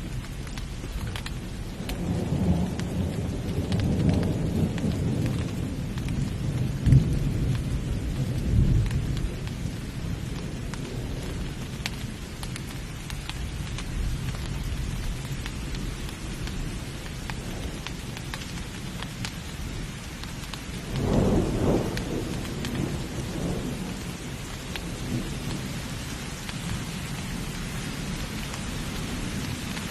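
Steady heavy rain with rolling thunder: a long low rumble from about two seconds in with a sharp crack near seven seconds, then a second, sharper peal about twenty-one seconds in that rumbles away.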